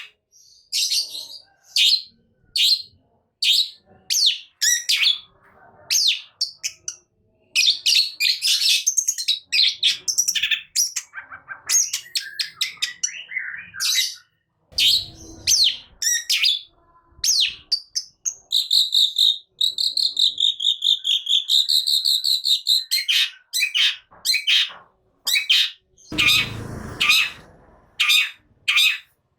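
Long-tailed shrike (cendet) singing energetically in a rapid string of sharp, high chirps and calls, with a sustained warbling trill about two-thirds of the way through. A short harsh, noisy burst comes near the end.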